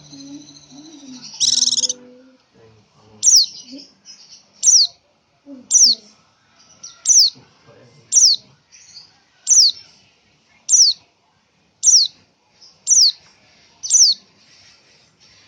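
Female pleci (white-eye) calling, a high, thin note that falls sharply in pitch, repeated steadily about once a second from about three seconds in: the call a hen gives to draw a male.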